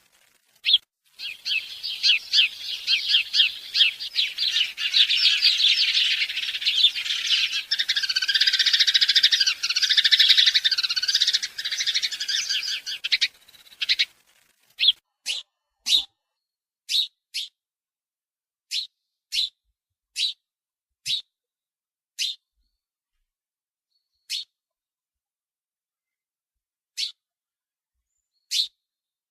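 Small birds chirping: a dense, overlapping chatter of many calls for about the first half, which stops abruptly. After it, single short chirps come every second or two.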